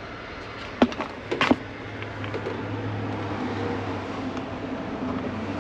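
A steady low hum, with a few sharp metallic clicks and taps about a second in as small screws are handled.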